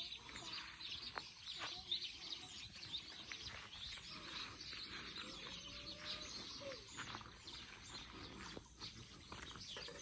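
Faint outdoor ambience with scattered small bird chirps and a faint distant voice.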